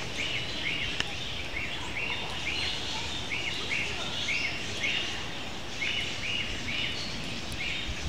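A small bird chirping over and over, short high calls coming two or three a second, over a steady outdoor background hiss.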